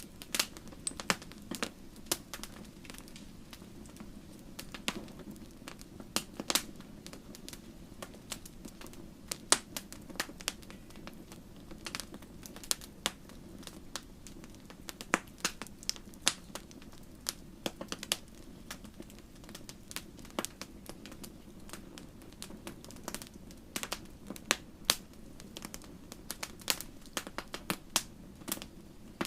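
Wood fire crackling: irregular sharp pops and snaps, several a second, over a steady low rumble of flame.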